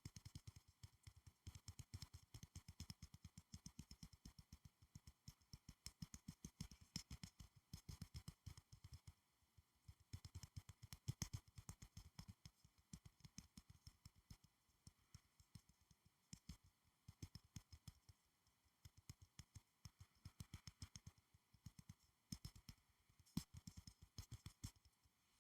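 Soft, quick fingernail tapping on school supplies, in rapid runs of many small taps with short pauses between them.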